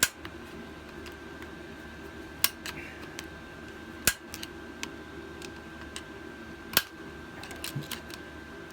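Screwdriver clicking and tapping against the valve springs and retainers of a small engine as they are pried up to free the valves: scattered metal clicks, four sharper ones a couple of seconds apart, over a steady hum.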